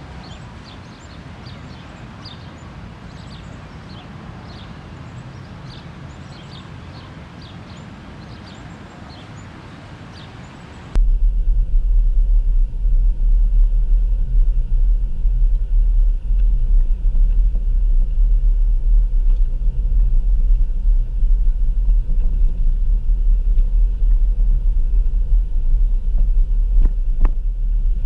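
Small birds chirping repeatedly over a soft outdoor background. About eleven seconds in, this cuts abruptly to a much louder, steady low rumble.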